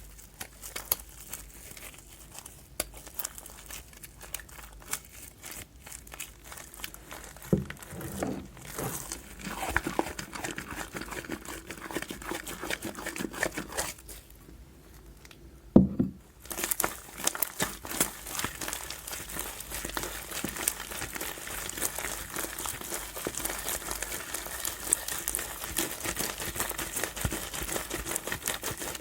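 Fluffy soap slime being squeezed and stretched by hand, with a dense run of small sticky crackles and pops. One dull thump is heard about halfway.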